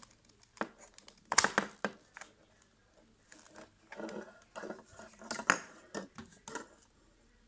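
Plastic clicks, creaks and scraping of an old headphone ear cup being handled and pried at to get its speaker out, with a cluster of sharp clicks about a second and a half in and another loud click about five and a half seconds in.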